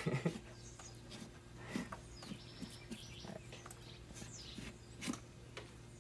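Faint bird chirps over a quiet outdoor background, with soft scattered clicks and rustles from a knife and hands working an agouti carcass on banana leaves.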